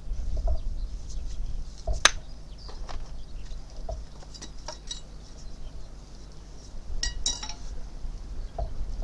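A few scattered sharp clinks and taps of hard objects knocking together, the loudest about two seconds in, with short ringing clinks around five and seven seconds, over a steady low rumble.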